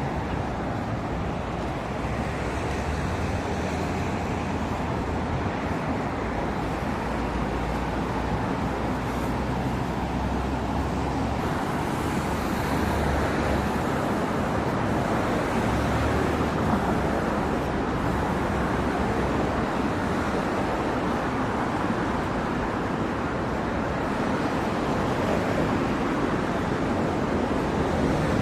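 Steady outdoor ambient noise: a continuous low rumble and hiss with no distinct events, typical of a city street by the sea.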